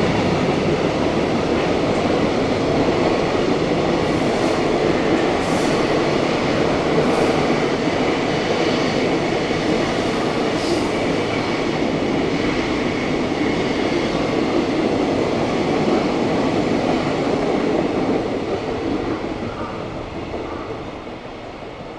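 Train passing along the track, a steady dense rush of wheels on rail with a few faint high squeals about four to seven seconds in. The noise fades away over the last few seconds as the train recedes.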